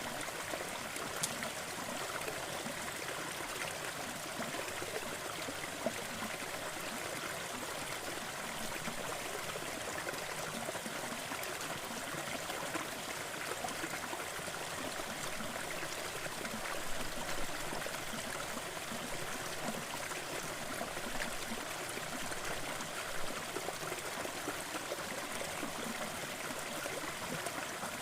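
Fireplace fire crackling over a steady rushing noise bed, with a few sharper pops standing out.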